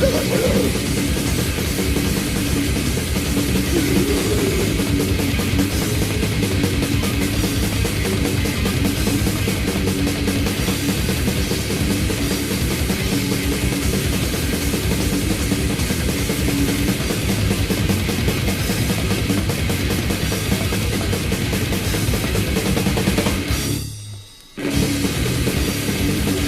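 Technical thrash/death metal band recording: distorted electric guitars, bass and a fast drum kit playing steadily, with one short break about 24 seconds in before the band comes back in.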